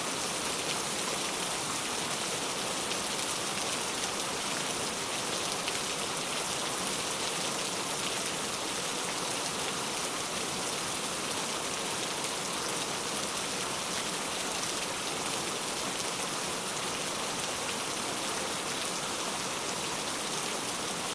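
Steady rain falling: a dense, even hiss of drops, strongest in the higher range, with no breaks or single drops standing out.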